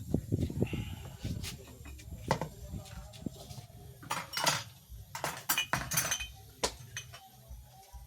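Hard objects clinking and knocking as they are handled, several with a short ringing tone like metal or crockery, bunched together about four to seven seconds in. Low dull knocks and rumble in the first second or so.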